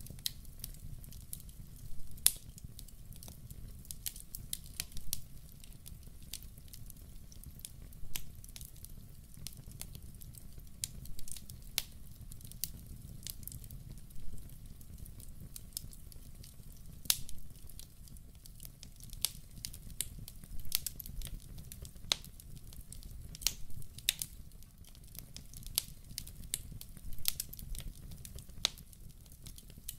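Wood logs burning in a fireplace: a low steady rumble of flame under irregular sharp crackles and pops, a few of them louder than the rest.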